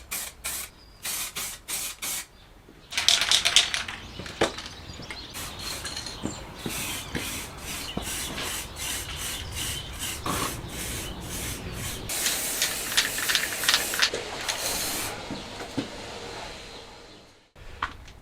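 Hand scrubbing or abrading strokes on a part, quick and rhythmic at about four a second at first, then a denser continuous rasping rub that stops abruptly near the end, followed by a single sharp click.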